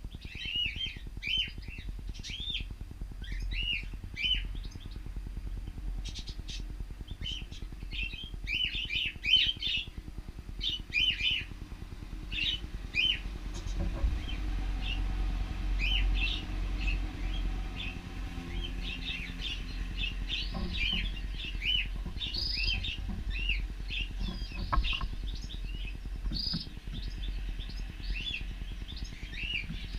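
Cockatiels chirping: many short, repeated chirps from several birds overlapping, over a steady low rumble.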